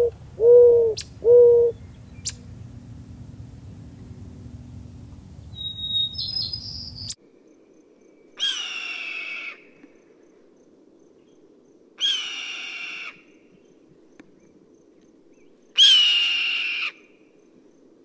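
A mourning dove gives its last few low coos. A red-tailed hawk then screams three times, each scream a rough, slightly falling call about a second long, the three spaced three to four seconds apart and starting about eight seconds in.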